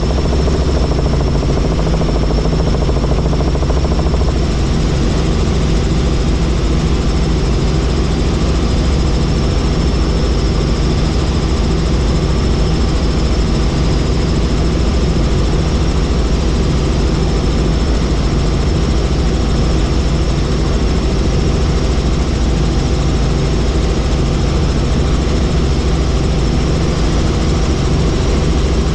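Helicopter in flight: steady rotor and engine noise, heavy in the low end, with a thin steady high whine above it.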